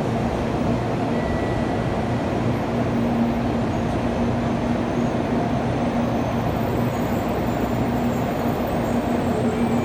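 Train running, a steady rumble with a low steady hum.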